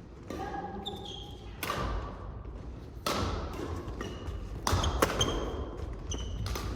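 Badminton doubles rally on an indoor court: sharp racket strikes on the shuttlecock every second or so, with short high squeaks of shoes on the court floor and thudding footsteps between the hits.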